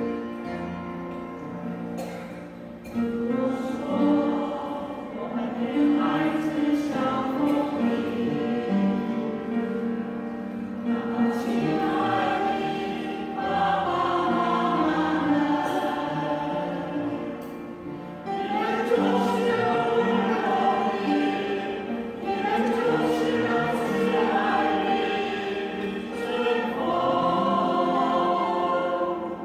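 Choral music: a choir singing sustained, flowing phrases.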